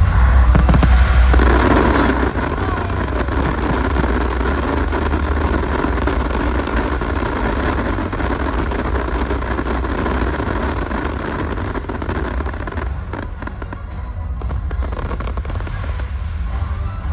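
Fireworks display bursting and crackling densely, the crackle building about a second in, over loud music with a heavy bass from the show's sound system.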